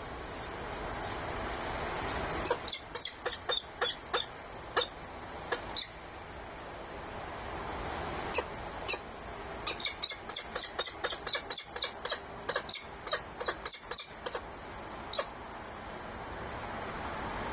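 Birds at a nest giving two bouts of rapid, short, high-pitched calls, about three to four a second, over a steady background hiss.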